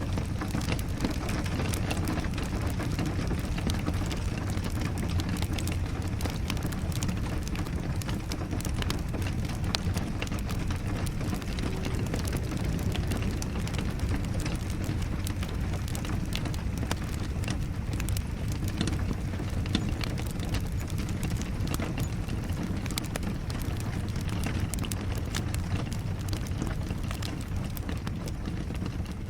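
Steady rain with a crackling wood fire: a constant low rumble under many small, sharp crackles and ticks, easing down slightly near the end.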